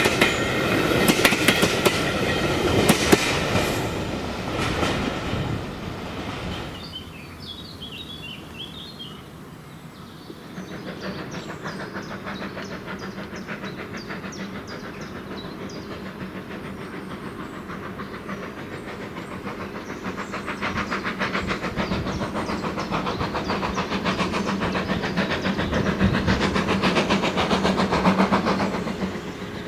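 Steam-hauled train running past on the line, its wheels clicking quickly over the rail joints; the clatter fades away after about six seconds, then a fast, even clatter builds up again and is loudest near the end before dropping off suddenly.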